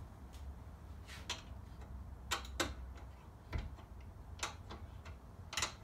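Irregular sharp metallic clicks and taps of a hand tool working the side locking nut loose on a reel mower's cutting-reel carriage, with one heavier knock about halfway through.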